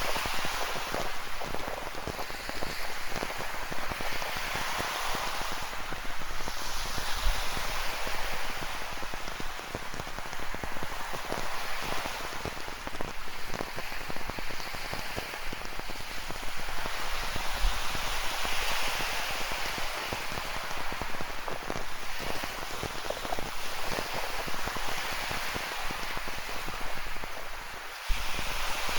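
Rain falling in close drops over the continuous wash of ocean surf, which swells and fades every few seconds. Near the end the sound briefly drops away and comes back abruptly.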